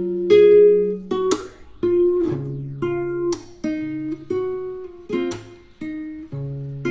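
Instrumental music: an acoustic guitar strumming chords, a new strum about every half second to second.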